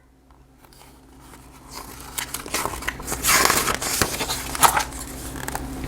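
Paper rustling and crinkling as a picture book's page is turned, loudest in the middle, with a few small clicks over a faint steady electrical hum.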